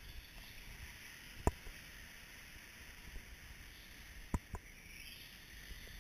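Radio-controlled short-course trucks running on the track: a steady high hiss that swells and fades as they pass, with three sharp knocks, one about a second and a half in and two close together a little past four seconds.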